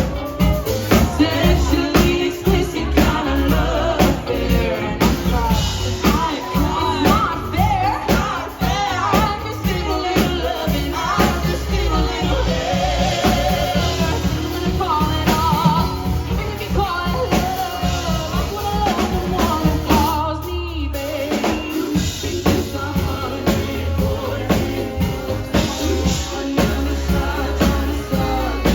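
Live band playing rock music: a singer over a drum kit and bass, with a momentary break in the band about two-thirds of the way through.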